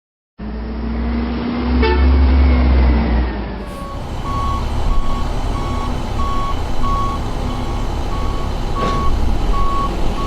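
Garbage truck sound effect: the diesel engine runs with a heavy low rumble, louder for a moment about two seconds in. From about four seconds in, its reversing alarm beeps steadily, backing up.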